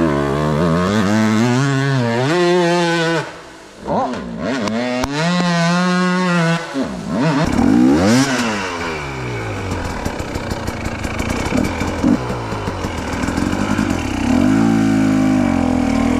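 Two-stroke dirt bike engine revving hard, its pitch rising and falling again and again with the throttle; it drops away briefly about four seconds in, then picks up again.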